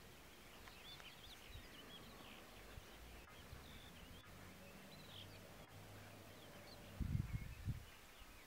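Faint outdoor ambience of small birds chirping and warbling. A brief low rumble comes about seven seconds in.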